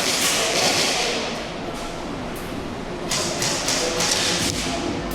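Airsoft guns firing in two rapid bursts, with scattered sharp knocks and clicks around them.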